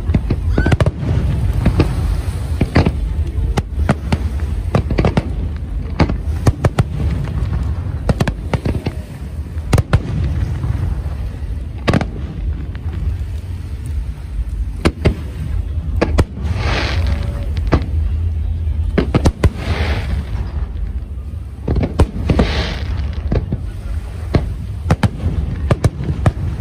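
Fireworks display: aerial shells going off in rapid, irregular succession, sharp bangs over a steady low rumble. In the second half there are several hisses, each about a second long.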